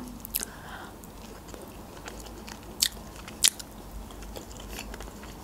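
Chewing a mouthful of stuffed bell pepper, quietly, with a few short sharp clicks, the two loudest a little before and after three seconds in.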